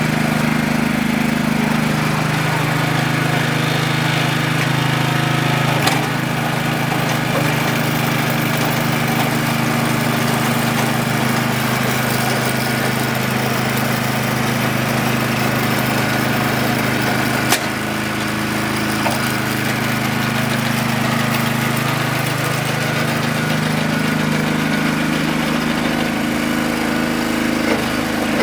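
Honda HSS760n snowblower's 5.8 hp single-cylinder gasoline engine running steadily, its pitch stepping up or down a few times as the speed changes. Short sharp clicks come about six seconds in and again past halfway.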